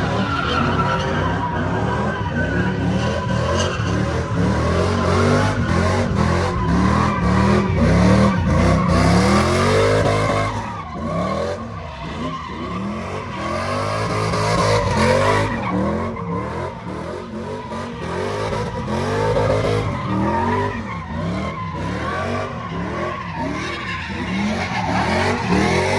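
A truck engine revving up and down over and over, with the hiss and screech of tires spinning in a burnout.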